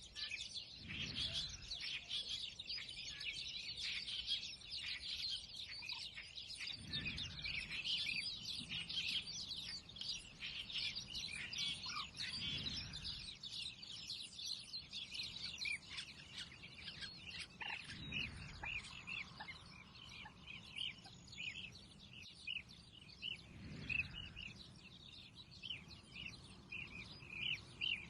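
Many small birds chirping together in a dense, continuous chorus of short high notes, thinning slightly in the second half. A soft low whoosh recurs about every six seconds underneath.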